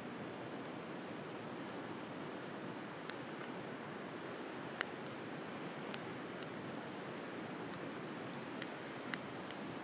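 Wood bonfire crackling, with sharp pops every second or two (the loudest nearly five seconds in), over the steady hiss of sea waves.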